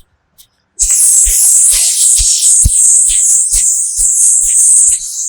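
A long hissing 'sssss' breathed out through the teeth, starting about a second in and lasting about four seconds: the qigong healing sound for the lungs, the metal element, made with the corners of the mouth drawn up as in a smile. Soft background music with a low beat about twice a second runs beneath it.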